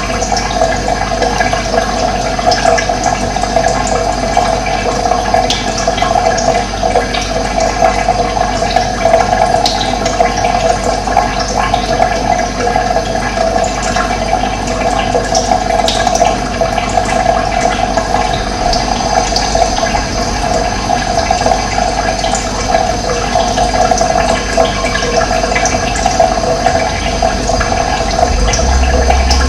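Running water, a steady, unbroken rushing flow.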